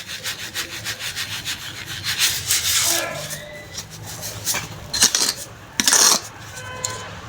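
Soft sand crumbling and being crushed against a clay pot: a run of quick gritty rubbing strokes, then a louder crunch, and two sharp crumbling crashes near the end.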